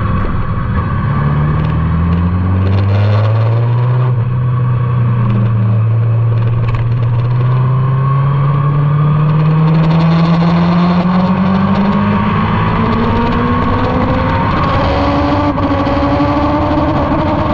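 Motorcycle engine under load on a race track, its pitch dipping about a second in and then climbing slowly and steadily as it pulls through a gear, with wind rush over it.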